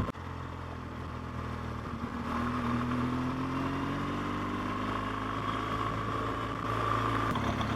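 BMW R1200GS flat-twin boxer engine running under way, its note rising slowly through the middle, then dropping near the end.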